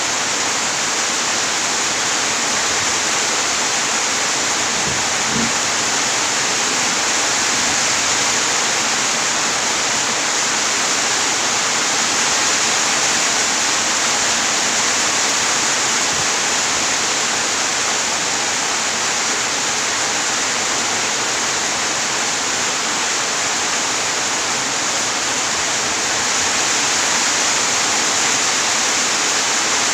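Steady rain, a dense, even hiss.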